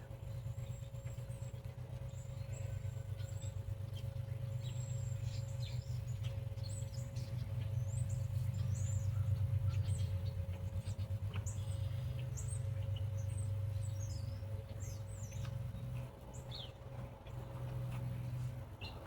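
Small birds chirping in short, high calls over a steady low hum.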